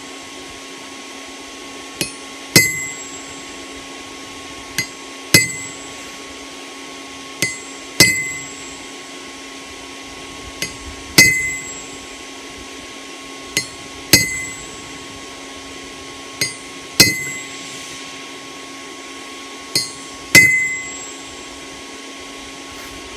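Hammer striking a chisel on hot steel at the anvil, cutting the mouth of a forged face. The blows come in pairs about every three seconds, a light tap then a louder ringing blow, over a steady hum.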